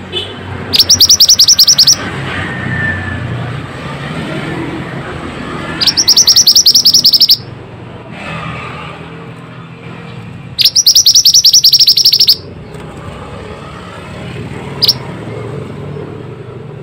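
Mantenan bird song: three loud, fast trills of evenly repeated high notes, each about a second long, spaced several seconds apart, with one short single note near the end. A low background rumble runs underneath.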